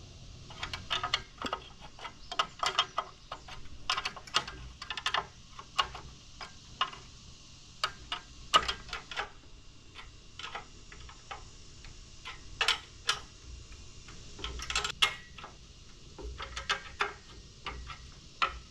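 Sharp, irregular clicking and clinking of a wrench on bolts, some in quick runs, as the bolts holding a plastic pool-ladder step are tightened.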